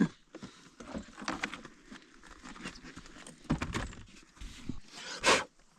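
Scattered clicks, small knocks and rustling of hand tools being handled on a two-stroke dirt bike during a spark plug change for a fouled plug, with a short sharp noisy burst about five seconds in.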